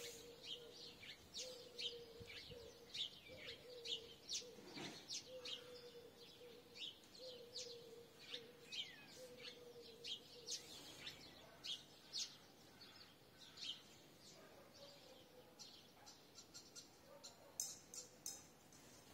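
Faint birds chirping: many quick, high chirps scattered throughout, with a low note repeating about every second or so through the first half.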